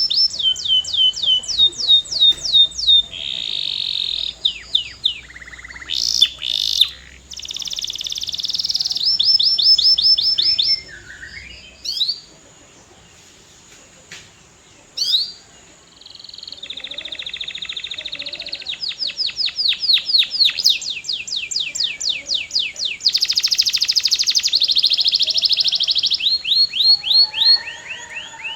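Canary singing: long rolls of fast, evenly repeated falling notes, changing from one type of note to another, with a pause of a few seconds midway.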